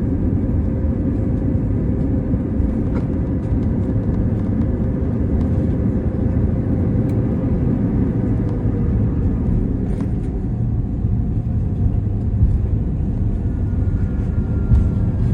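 Steady low rumble heard from inside the cabin of an Airbus A321neo rolling on the ground after touchdown, with a few faint clicks.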